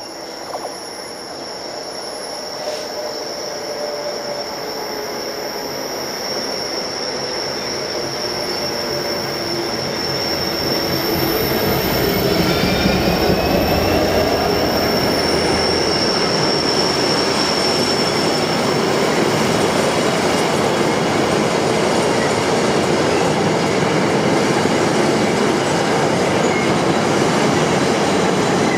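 Class 66 diesel freight locomotive, with a two-stroke EMD V12 engine, approaching and running past, followed by a train of empty car-carrier wagons rolling by on the rails. The rumble builds over the first ten seconds or so and then holds steady as the wagons pass, with a steady high-pitched squeal that fades out about two-thirds of the way through.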